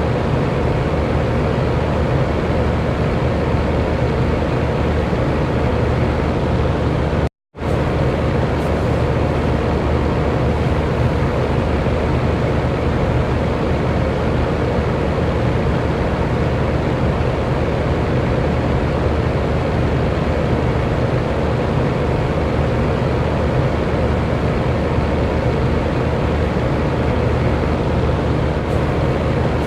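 Electric fan running steadily: an even whooshing noise with a low hum and a few faint steady tones. The sound cuts out completely for a fraction of a second about seven seconds in, then resumes unchanged.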